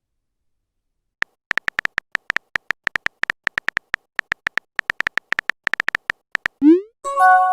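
A chat-app typing sound effect: a rapid, irregular run of short electronic ticks starting about a second in. Near the end comes a quick rising swoop and then a short multi-note chime, the sound of a message being sent or arriving.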